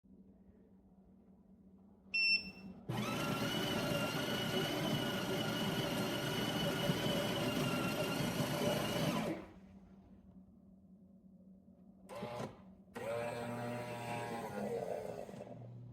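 Café Affetto automatic espresso machine beeping once, then its motor whirring steadily for about six seconds. After a short knock, a second, shorter whir falls in pitch as it winds down.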